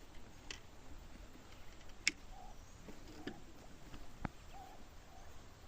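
A few scattered sharp clicks and knocks, the loudest about two seconds in, over faint short chirps.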